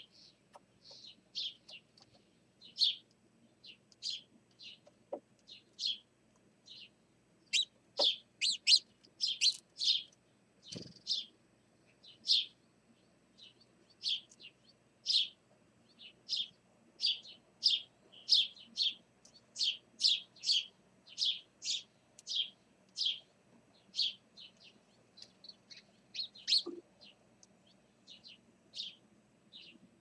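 A small bird chirping over and over: short high chirps at roughly one to two a second, loudest in the middle stretch. There is a faint low thump about eleven seconds in.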